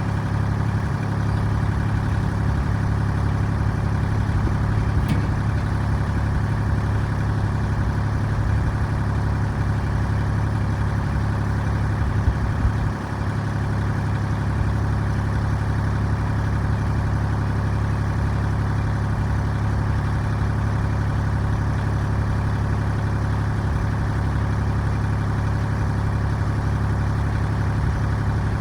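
A tractor's engine running steadily at an even speed.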